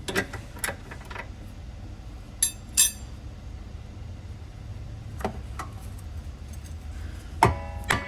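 Metal hand tools clinking and clattering: a few sharp clinks, two louder ones about two and a half seconds in, and near the end a metallic clang that rings on.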